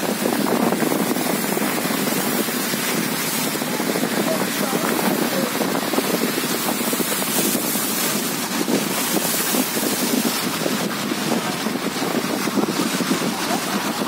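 Hailstorm: hailstones pelting down in a steady, dense clatter of countless small impacts.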